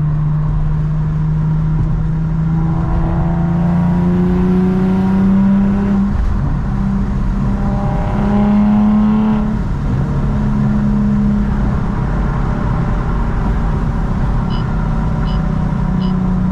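Infiniti G37's V6 running with test pipes in place of its catalytic converters, the engine note climbing twice as it accelerates and dropping back after each climb, then holding steady. A few light, evenly spaced ticks come in near the end.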